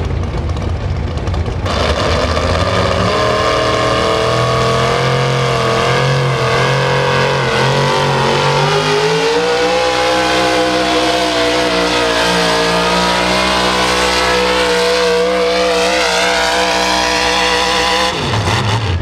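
Pulling truck's engine running hard under load while dragging a weight sled. It opens up sharply about two seconds in, the note wavers and climbs as it pulls, then drops away near the end as the throttle is let off.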